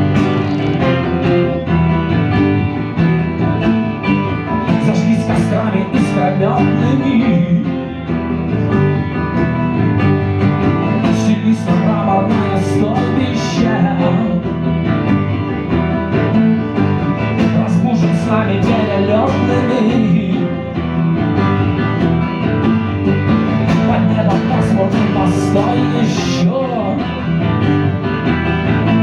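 Live band playing the instrumental introduction of a song on guitars, with a wavering melody line over the chords.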